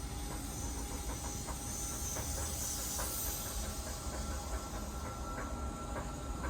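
Stationary Keihan 3000-series electric train standing with its equipment running: a steady low hum with two thin steady tones, and a high hiss that swells about two to three seconds in. Faint scattered ticks run through it.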